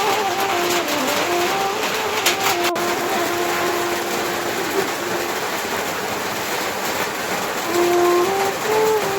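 Steady rain hiss with a motor humming over it. The hum dips in pitch about a second in, fades out a little past the middle, and comes back a bit higher near the end.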